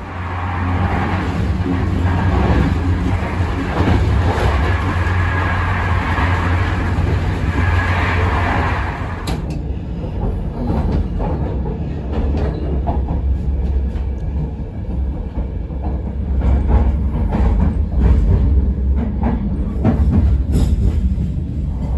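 Passenger train running on the rails, heard from on board: a steady low rumble under a rushing noise that drops away about nine seconds in, after which the wheels' clicks over the rail joints stand out.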